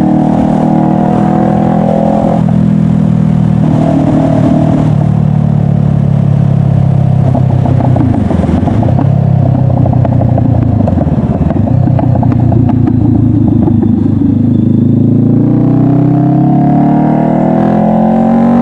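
Honda CBR500R's parallel-twin engine running under way. Its note holds steady at first, dips and recovers several times around the middle, then climbs steadily near the end as the bike accelerates.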